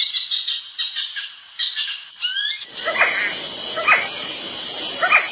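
Birds calling: a run of quick, high chirps, then from about two and a half seconds in a steady high hum with separate lower calls about once a second.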